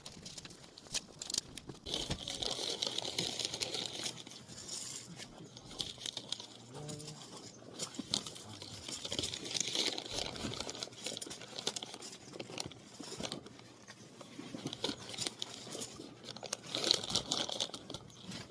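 Crinkling and rustling, as of plastic packaging or fabric being handled, coming in uneven swells with many small clicks.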